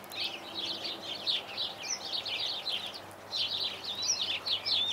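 Birds chirping and twittering, a quick, continuous run of short high notes, thinning briefly around the middle.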